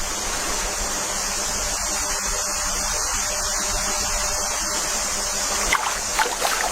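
Steady rushing water, like a stream, with a few sharp clicks or splashes about six seconds in.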